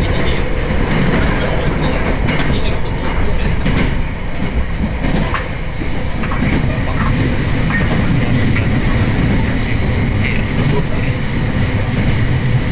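Senzan Line train running at speed, heard from inside the carriage: a steady rumble of wheels on rails, dipping slightly in loudness about four to five seconds in.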